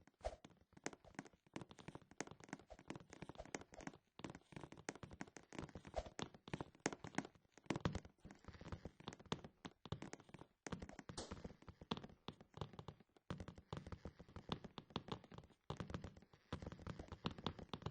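Rapid, irregular tapping and clicking, several small knocks a second, with a few heavier thumps among them.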